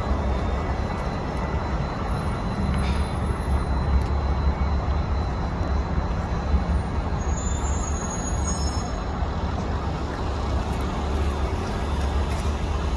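Steady low rumble of a passenger train running on the track, hauled by the Polson No. 2 logging locomotive.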